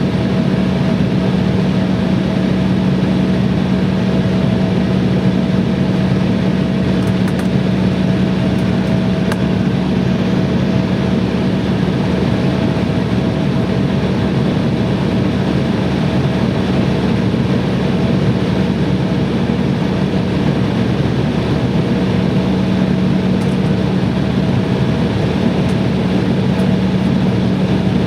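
Airliner engine noise heard inside the passenger cabin: a steady, loud hum with a low drone and a fainter higher whine held constant throughout.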